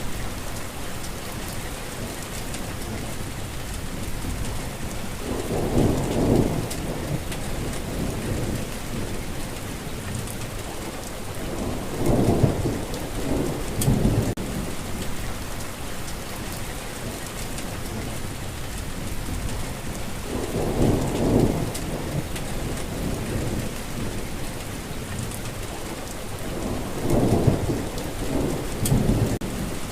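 Steady rain with low rumbles of thunder, four times, each lasting a second or two.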